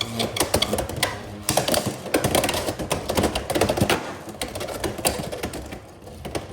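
Two Beyblade X tops, Silver Wolf 1-60 Rush and Phoenix Wing 3-60 Point, spinning and colliding in a plastic stadium: a rapid, uneven clatter of clicks and knocks from their hits, easing off about four seconds in.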